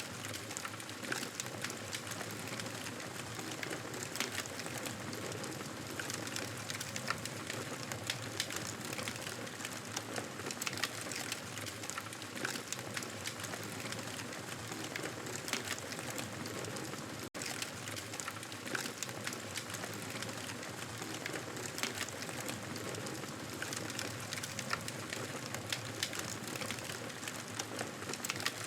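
Wood fire crackling in a fireplace: a steady hiss dotted with many small pops and snaps. The sound drops out for an instant about two-thirds of the way through.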